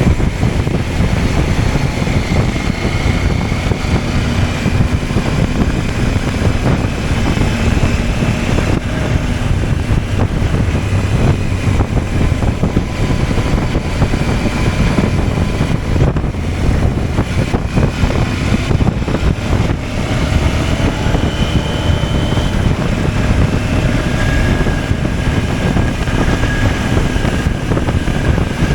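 CFMOTO 800MT parallel-twin engine running under way, with strong wind and road rush over the microphone; the engine note drifts up and down slightly as speed changes.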